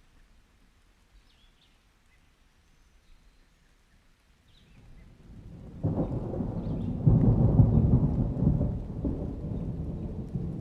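Thunder: after a quiet start, a low rumble builds just before the middle, breaks in suddenly, peaks a second later and then rolls slowly away.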